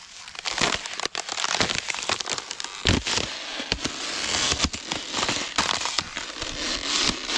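Hiking footsteps crunching and crackling on the trail surface, a dense, irregular run of crunches with a few sharper snaps.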